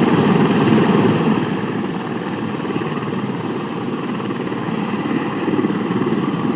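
Helicopter running on a joyride, a loud steady engine-and-rotor drone, a little louder in the first second or so.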